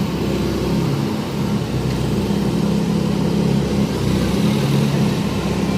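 Heavy diesel excavator engine running steadily under load as it works to lift an overturned dump truck, a constant low drone with slight rises and falls.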